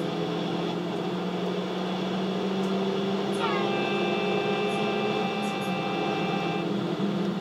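Car engines running at speed on a race track, the in-car sound of onboard lap videos played back through computer speakers. About three and a half seconds in a higher whine joins, dropping quickly in pitch, then holding steady until it stops about three seconds later.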